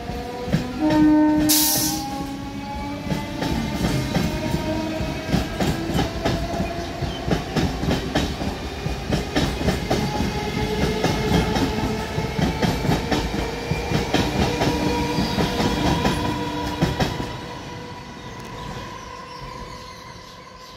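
Electric suburban local train (EMU) running past: rapid clickety-clack of wheels over rail joints with a traction-motor whine that slowly rises in pitch as it gathers speed. A short horn-like tone and hiss come about a second and a half in. The sound fades out after about seventeen seconds as the last coach goes by.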